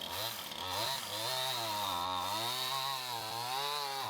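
Chainsaw starting up right at the start and running at high revs, its pitch sagging and recovering several times as the load on it changes.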